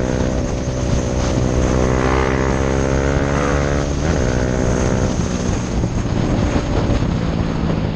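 KTM 390 Duke's single-cylinder engine running through a Mivv aftermarket exhaust at speed, heard from a helmet chin mount. The note holds steady, then about halfway through the pitch shifts sharply and the sound turns rougher.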